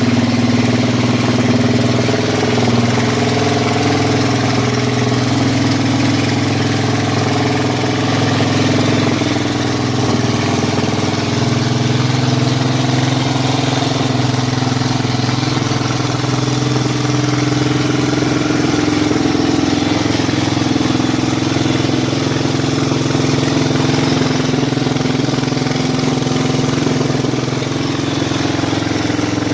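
Kawasaki KLR 650's single-cylinder four-stroke engine idling steadily through its exhaust.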